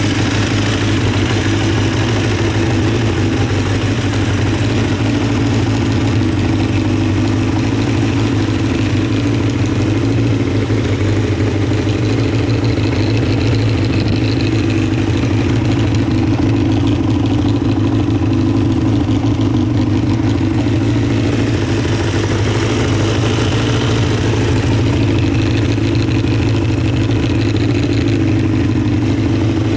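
Honda CBX550F2 Integra's air-cooled inline-four engine idling steadily at an even pitch, with no revving; the seller describes the engine as running in excellent condition.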